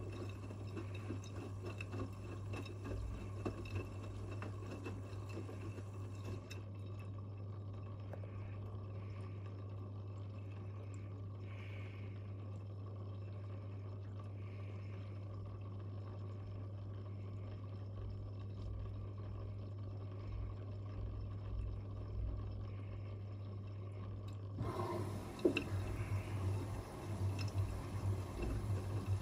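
Front-loading washing machine mid-wash: water sloshing in the turning drum over a steady motor hum. The sloshing grows busier and louder near the end.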